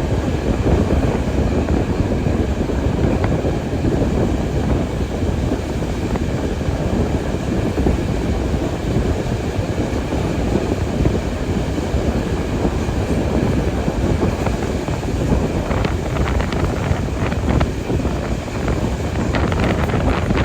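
Train rolling along the track, a steady loud rumble with wind on the microphone and a few clicks in the last few seconds.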